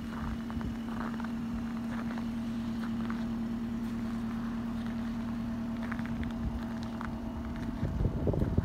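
A 2015 Toyota Corolla CE's 1.8-litre four-cylinder engine idling steadily, with footsteps crunching in snow about once a second. Near the end, rough bursts of exhaust and wind buffet the microphone as it comes close to the tailpipe.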